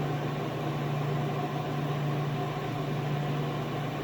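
Steady whir of electronics cooling fans with a constant low hum underneath, from a running high-current amplifier and power-supply setup.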